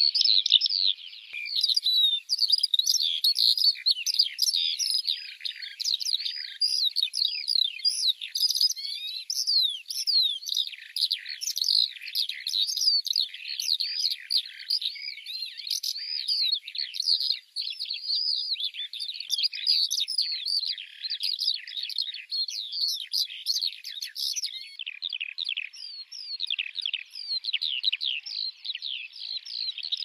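Small songbirds chirping: a dense, unbroken run of quick, high-pitched chirps, with only a brief pause about two-thirds of the way through.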